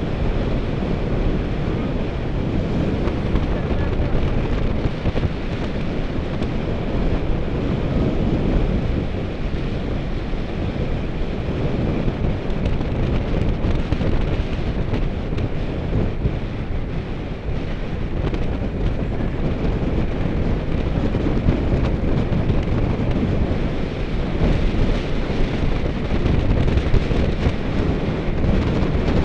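Steady wind rushing over the microphone of a camera riding along on a moving bicycle.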